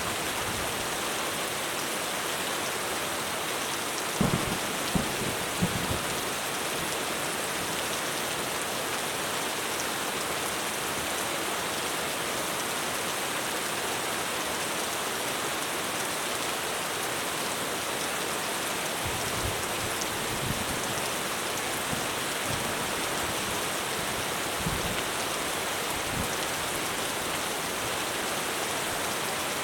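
Heavy rain drumming steadily on a roof. A few short, low thumps stand out about four to six seconds in, and fainter ones come later.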